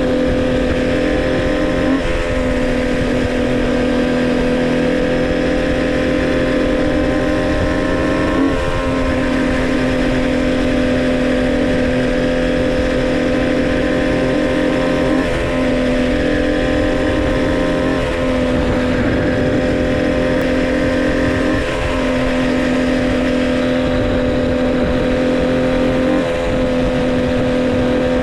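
Homemade three-cylinder two-stroke motorcycle engine running at a steady pitch while riding, still being broken in. The note briefly breaks and resumes about every three to six seconds.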